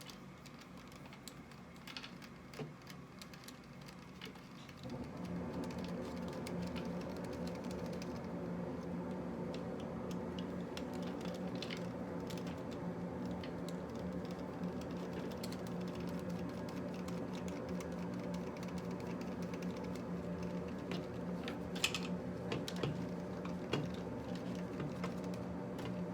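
Light clicks and taps of small tools and plastic parts being handled while an RC monster truck's rear shocks are taken off and apart. About five seconds in, a steady electrical hum starts and continues underneath.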